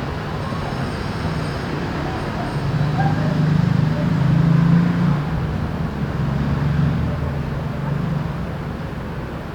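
Street traffic: the low engine rumble of a passing vehicle builds to its loudest about four to five seconds in, then fades back into the background hum.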